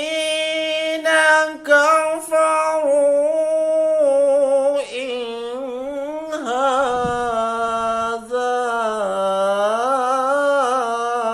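Melodic Quran recitation (tilawah): one voice chanting in long, drawn-out held notes with wavering ornaments, the Arabic words "in hādhā" sung slowly near the end.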